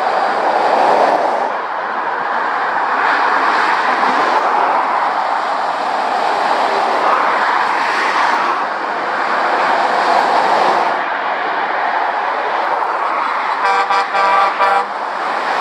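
Motorway traffic of lorries and cars passing at speed: a steady rush of tyre and engine noise that swells and fades as each vehicle goes by. Near the end a vehicle horn gives a quick run of short toots.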